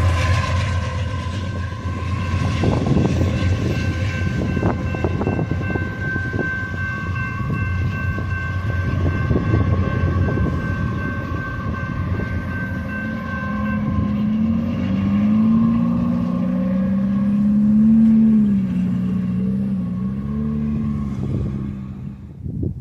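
Union Pacific freight train rolling past just behind its rear DPU locomotives, a loud rumble with wheels knocking over rail joints. Several steady high ringing tones sound through the first half. A wavering low drone rises in the second half.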